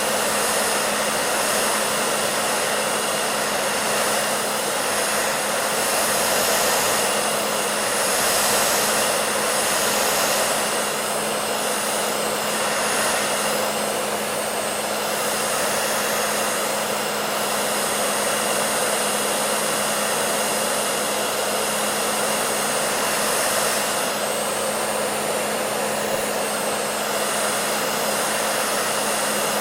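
Hair dryer running continuously: a steady rushing of air over a constant motor hum.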